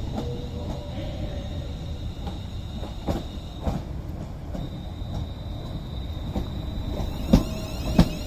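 Class 350 electric multiple units being coupled together: a steady low rumble from the trains with a faint steady whine. Several sharp clunks come through it, the two loudest about half a second apart near the end.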